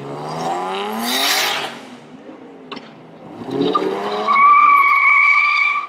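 A car engine revving up twice, with a sharp hiss at the top of the first rev, then the tyres squealing in a loud, steady high screech for the last second and a half, as in a burnout or hard launch. The screech cuts off suddenly at the end.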